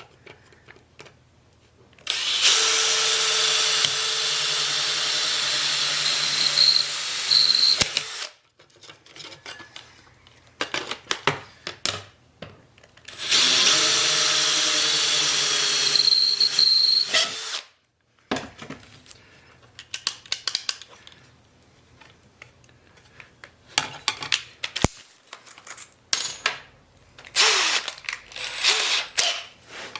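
Electric power drill running in two long bursts, about six and four seconds, on a metalwork job. Between and after the runs come light clinks and knocks of metal parts being handled.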